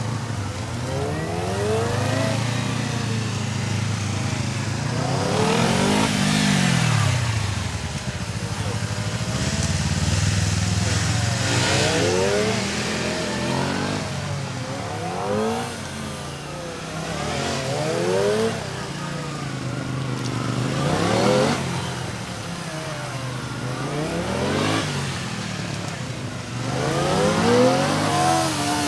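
Kawasaki ZX-25R's 250 cc inline-four engine revving up and down over and over, its pitch climbing in short bursts of acceleration and dropping off again every two to three seconds, as in a tight gymkhana course.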